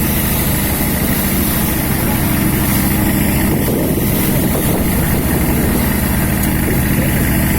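A fishing boat's inboard engine running steadily at a constant speed, heard on board.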